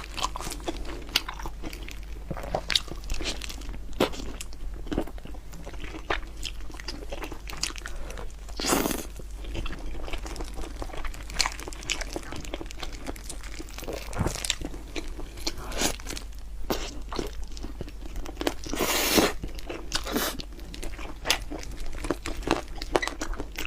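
A person biting and chewing crunchy food close to the microphone: a quick run of sharp crunches throughout, with two longer noisy sounds about nine and nineteen seconds in.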